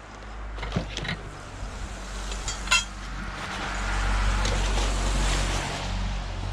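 A few sharp knocks and clinks, the loudest near the three-second mark, then a car passing, its engine and tyre noise swelling and easing off again.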